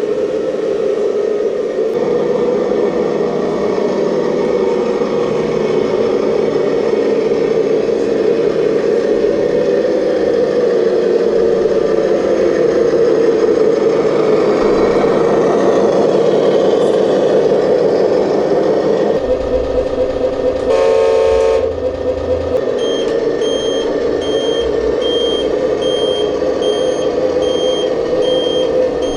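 Simulated diesel engine sound from a radio-controlled construction model's sound module, running steadily. About two-thirds through comes a short horn blast, followed by reversing beeps a little over one a second.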